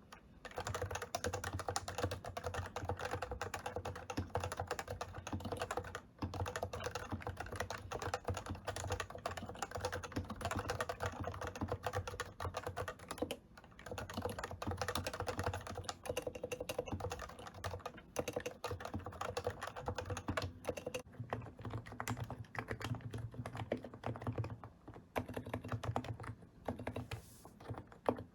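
Enthusiast keyboard being typed on quickly and continuously, a dense run of keystroke clacks with short breaks about 6 and 13 seconds in.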